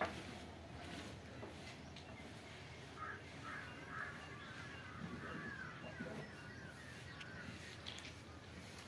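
Faint bird calls, wavering and repeated, over steady background noise, with a few light knocks.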